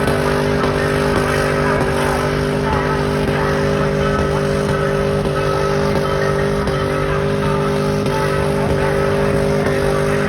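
Truck engine held at steady high revs, its pitch barely changing, over a dense wash of noise.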